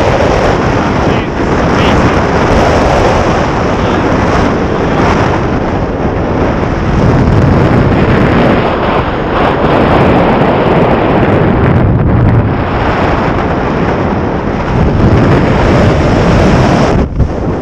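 Loud, steady rush of wind buffeting the camera microphone during a tandem skydive.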